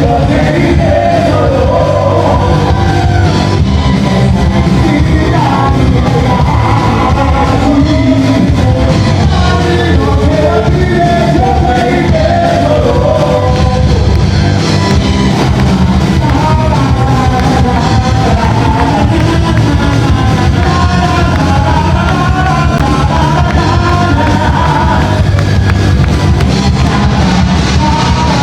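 Live rock band playing loudly with a singer over it, heavy on the bass.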